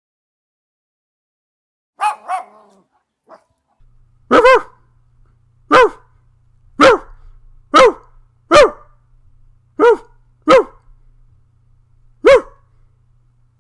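A puppy barking: a couple of short yaps about two seconds in, then a run of eight sharp, high barks at irregular intervals, with a faint steady hum underneath.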